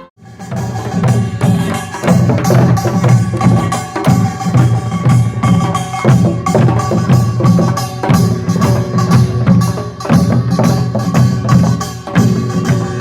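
Korean pungmul percussion ensemble playing loudly: fast, dense drum strokes under steady ringing metal gong tones, the rhythm falling into phrases about two seconds long.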